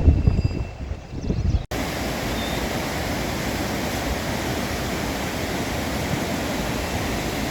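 Gusty low rumble of wind buffeting the microphone, then, after an abrupt cut less than two seconds in, the steady rush of a fast-flowing mountain stream.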